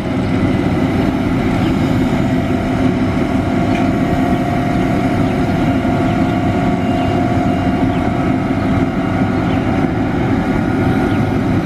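A train's locomotive running steadily: an even low rumble with a few steady humming tones over it, one of which creeps slightly higher in pitch midway.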